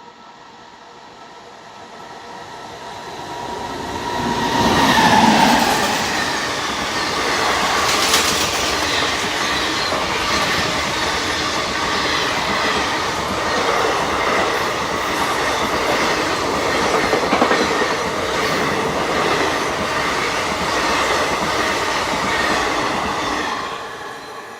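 A train passing close by: it builds over the first few seconds, the locomotive going by with a falling pitch about five seconds in, then the wheels clattering steadily with some squeal until the sound drops away near the end.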